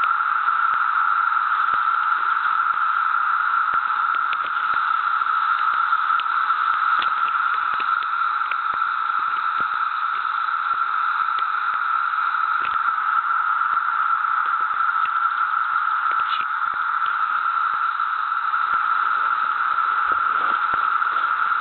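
A chorus of cicadas, a continuous loud droning that holds at one pitch without a break.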